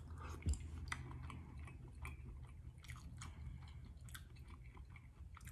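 A person chewing a mouthful of small boiled shrimp: faint, irregular soft mouth clicks and smacks. A single low thump about half a second in.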